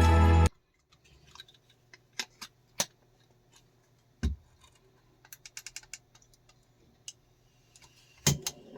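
Background music cuts off half a second in, followed by scattered light clicks and taps, with a louder knock about four seconds in and another near the end.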